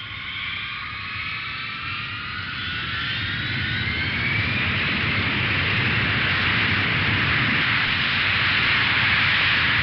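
Jet airliner engines spooling up: several whining tones rise slowly over the first few seconds, then give way to a steady rushing noise that keeps growing louder.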